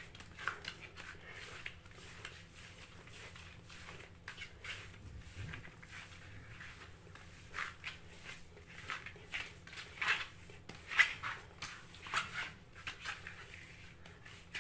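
Hands kneading and rubbing soft cookie dough in a bowl: faint, irregular scraping and rubbing strokes.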